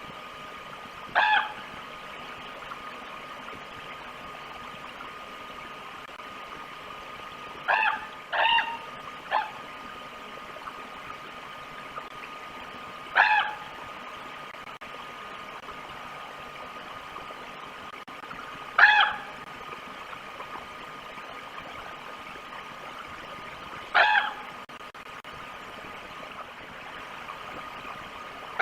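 A bird gives short, harsh, pitched calls about every five seconds, once in a quick run of three. A steady hiss and a faint steady hum lie underneath.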